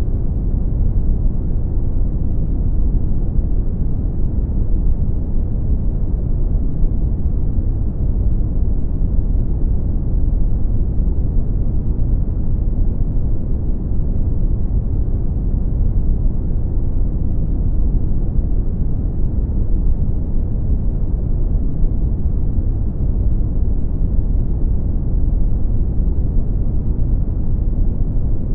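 Brown noise: a steady, deep, even rumble of random noise, heaviest in the bass and with no highs, not changing at all.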